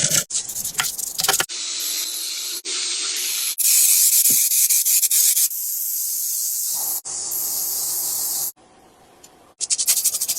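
A quick series of short, abruptly cut clips of restoration work noise: steady high hissing and rubbing, as of spraying and sanding, with bursts of rapid clicking near the start and the end.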